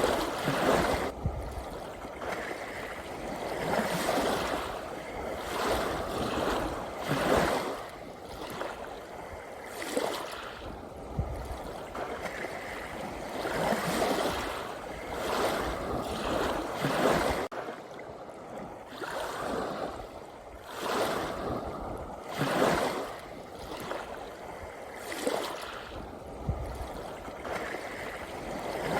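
Sea waves washing in, a rush of water that swells and fades every two to three seconds, with a short calmer spell a little past the middle.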